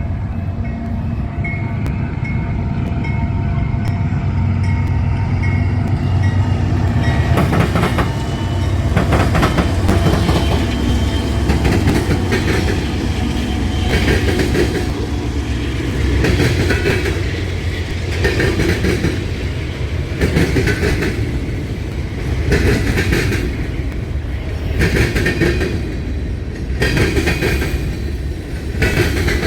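Union Pacific manifest freight train rolling past: a steady low rumble with a held hum for the first several seconds, then the freight cars' wheels clacking over the rail diamond in a regular beat about every two seconds.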